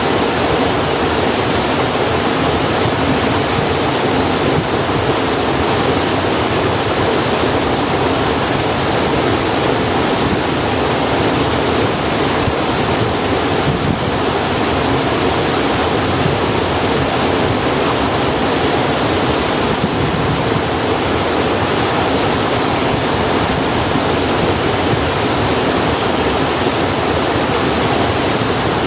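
Steady, loud rushing of running water, even and unbroken throughout.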